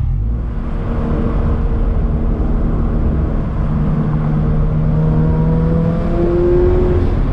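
Turbocharged Scion FR-S flat-four engine pulling under acceleration while driving, its pitch rising slowly, with a jump to a higher note about six seconds in.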